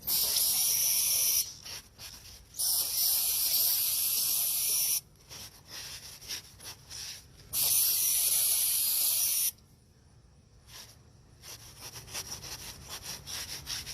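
Aerosol can of oil-stain cleaner sprayed onto concrete in three hissing bursts of one to two and a half seconds each. Near the end come faint, quick scratchy sounds.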